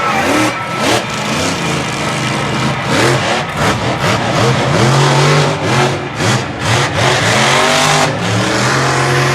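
Monster truck engine revving hard, its pitch climbing and dropping again and again as the throttle is blipped.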